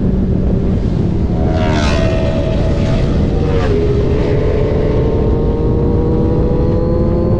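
Motorcycle engine running under way over heavy wind rush, the kind of sound a rider's onboard camera picks up. About one and a half seconds in an engine note rises briefly. From about four seconds a steady engine note climbs slowly, as the bike accelerates gently in gear. The rider's bike is a 2019 Yamaha R1 with an SC Project exhaust.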